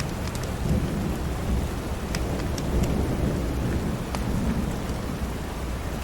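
Steady rain with a low, rolling rumble of thunder underneath, and scattered sharp crackles from a wood fire in a fireplace.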